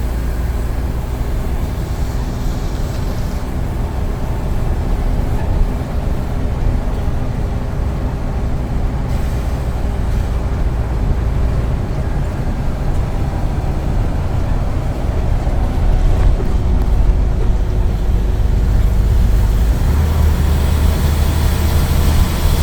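Scania N94UD double-decker bus engine running as the bus drives along, a steady low rumble with a faint whine over it that grows louder about two-thirds of the way through as the bus pulls harder.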